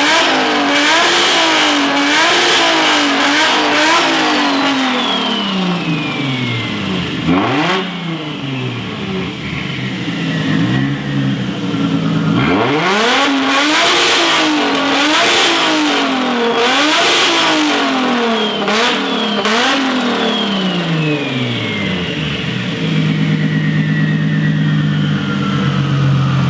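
Turbocharged Toyota 1JZ straight-six in a Cressida, revved hard and repeatedly through its new exhaust, with sharp pops and a falling turbo whistle as it comes off each rev. It settles to a steady, loud idle near the end.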